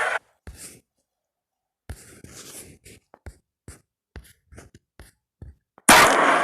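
Carrom pieces on the board: scattered light clicks and taps, then a loud clattering scrape near the end.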